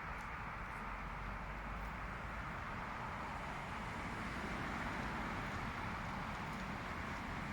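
Steady hum of distant road traffic, swelling slightly about halfway through.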